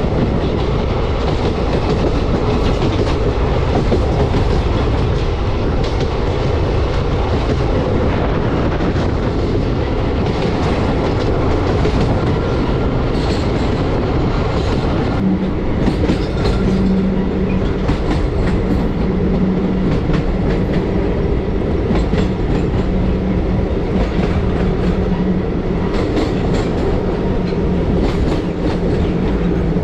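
Passenger train coach running at speed, heard from its open door: a steady rush of wheels on the rails, with a low steady hum coming in about halfway through.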